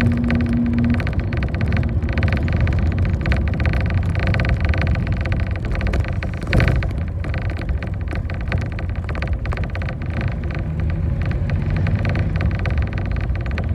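Inside a moving bus: steady engine and road rumble with frequent rattles from the body. About six and a half seconds in, a single sharper knock stands out as the loudest sound.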